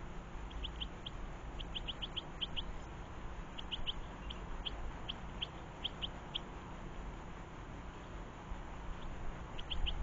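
Small songbirds chirping: quick runs of short, sharp chirps through the first six seconds, then a few more near the end, over a steady low background rumble.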